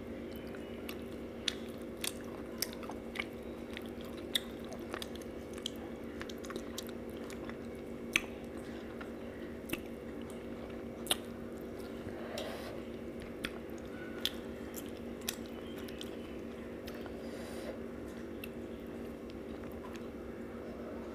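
Close-up eating sounds: chewing and lip smacks of someone eating fish and rice by hand, with sharp wet mouth clicks every second or so. A steady low hum runs underneath.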